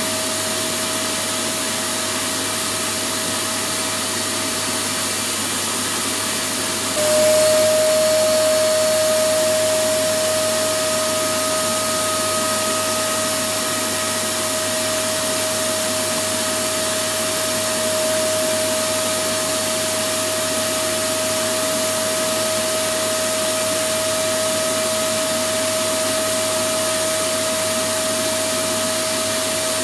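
Electric vacuum cleaner running steadily: an even rushing hiss with a single steady whine. About seven seconds in, the sound steps up slightly and then eases back to the same level.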